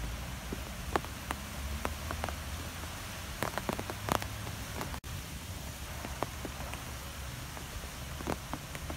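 Rain falling during a thunderstorm, with a steady hiss and scattered individual drops landing close by as sharp ticks, over a steady low rumble.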